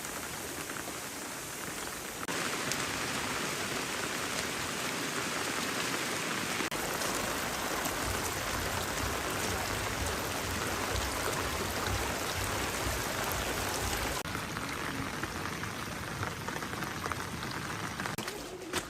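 Rain falling steadily, a dense hiss that gets louder about two seconds in and shifts abruptly a couple more times, with a low rumble underneath through the middle.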